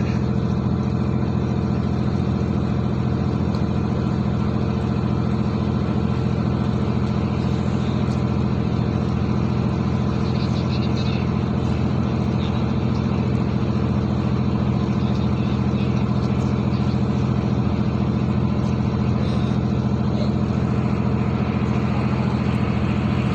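Ship's engine running with a steady low drone during a berthing manoeuvre, with no change in pace.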